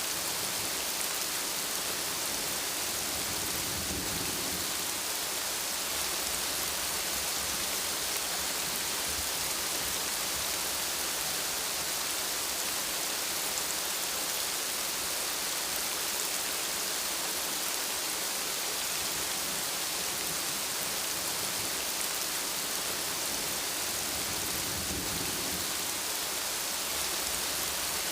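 Steady rain falling, a dense even hiss. A low rumble of thunder comes in a few seconds in and again near the end.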